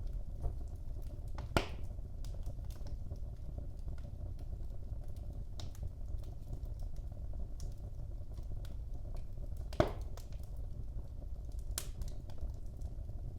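Wood fire in a fireplace crackling: a steady low rumble of burning with scattered small ticks, and a louder pop after about a second and a half and another about ten seconds in.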